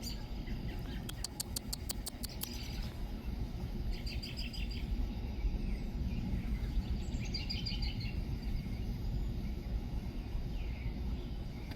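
Songbirds chirping: a rapid burst of sharp ticks about a second in, then short repeated chirp phrases twice more, over a steady low rumble.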